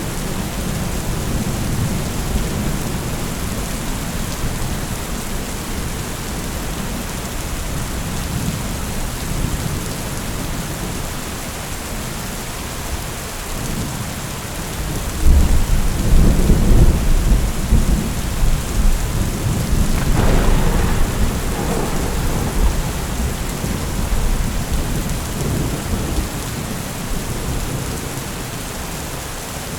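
Steady rain falling with rolling thunder. A deep rumble swells suddenly about halfway through, rolls on for several seconds with a sharper crack near the two-thirds mark, then fades back under the rain.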